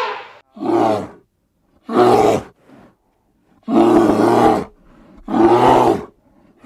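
An animal calling four times in loud, low, rough calls, each lasting half a second to a second, with short silences between.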